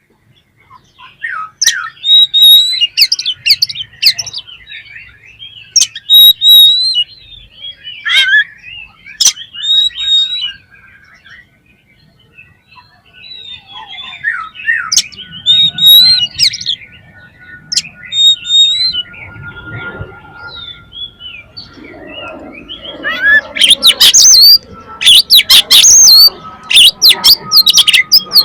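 Oriental magpie-robin singing a varied song of whistled phrases and trills, broken by short pauses. Near the end it turns into a loud, rapid run of harsh notes.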